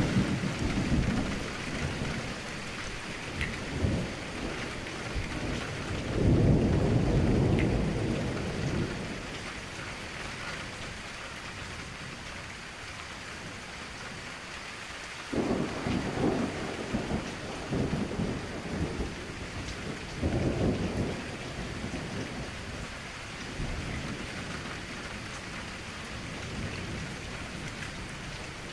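Steady rain falling against a window, with low rolls of thunder. The rolls come at the start, briefly about four seconds in, longest from about six to nine seconds in, and again around fifteen and twenty seconds in.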